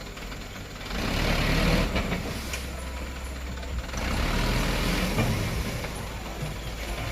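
Dump truck engine running, with a steady low rumble that grows louder about a second in and again about four seconds in.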